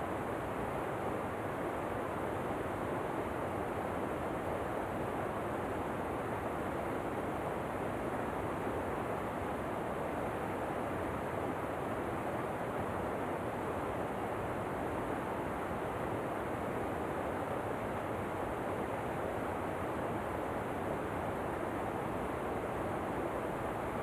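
Steady, unchanging rush of a waterfall: a dense, even wash of falling water with no breaks or separate splashes.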